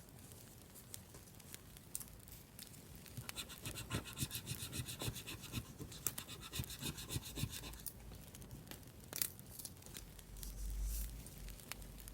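Rapid back-and-forth scratching on paper, building up a few seconds in and stopping about two-thirds of the way through, with a low bump near the end.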